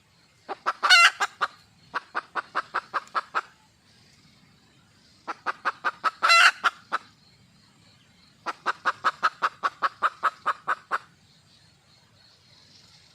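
Female red junglefowl (wild hen) calling for a mate: two bouts, each opening with a loud, drawn-out squawk that is followed by a run of short, evenly spaced clucks at about six a second.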